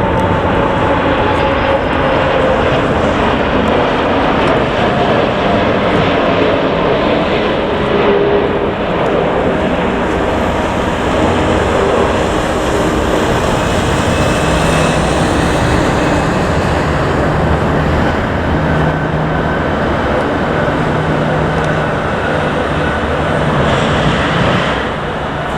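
Jet airliner engines running loud and steady at high power, with whining tones that glide slowly down in pitch.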